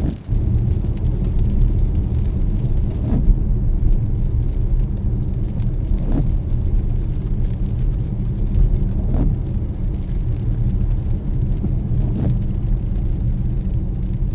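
A car driving on a wet road, heard from inside: a steady low rumble of tyres and engine. A faint, short swish of windscreen wipers comes about every three seconds.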